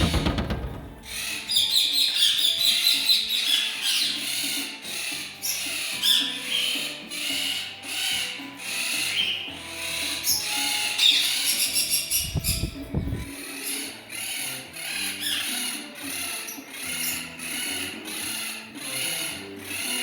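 Many small cage birds chirping and chattering together in a loud, continuous chorus of high, rapid calls. A brief low rumble at the very start and another a little past the middle.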